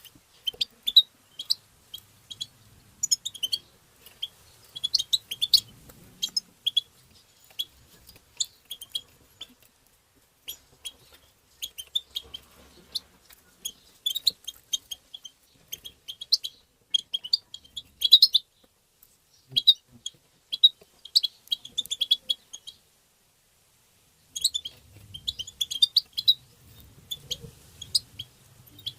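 European goldfinch twittering and singing: quick, high, tinkling chirps and trills in close runs. They break off for about a second and a half roughly three-quarters of the way through, then resume.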